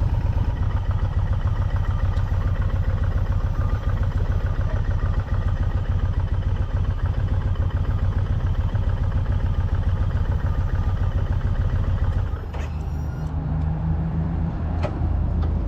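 Motorcycle engine running steadily with a rapid low pulsing. About twelve seconds in it drops to a quieter, steadier note.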